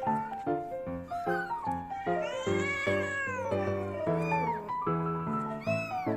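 Kittens mewing: several short, high, arching cries and one longer drawn-out cry about two and a half seconds in. Light background music plays under them.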